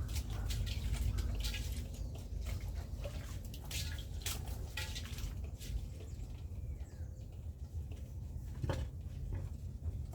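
Water splashing and dripping with many scattered clicks and knocks, over a steady low rumble.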